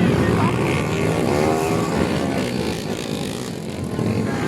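Dirt-bike engines revving on a flat-track motocross course, the pitch rising and falling as the bikes accelerate and ease off, with voices of onlookers underneath.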